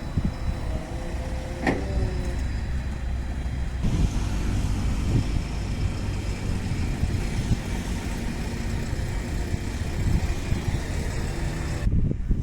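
JCB Vibromax soil compactor's diesel engine running steadily with a heavy low rumble, with a brief sharp sound about two seconds in.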